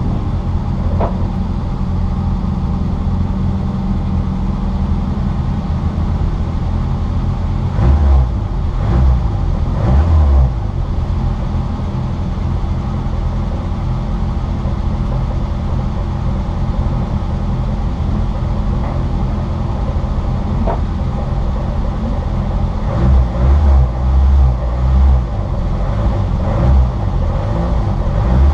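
Citroën Saxo VTR race car heard from inside, its engine running hard at speed with steady road noise. There are several heavy low thumps about eight to ten seconds in, and a cluster of them again near the end.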